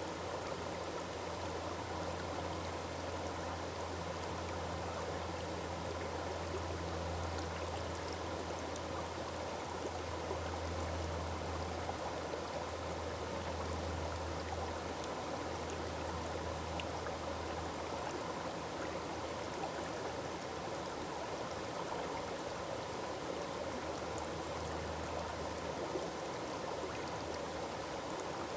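Forest waterfall: water falling and splashing into a stream in a steady, unbroken rush.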